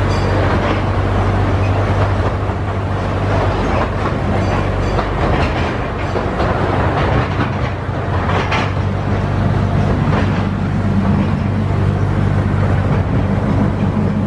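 Miniature zoo train ride heard from an open passenger car: steady low hum and rumble of the train running along a narrow-gauge track, with wheel clatter over the rail joints.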